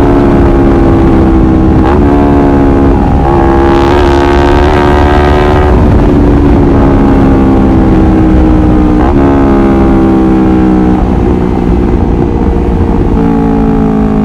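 Honda CBR250RR motorcycle engine running at high revs. Its pitch sinks slowly and then jumps back up abruptly several times, about two seconds in, again near three seconds, around nine and eleven seconds, and once more at the very end.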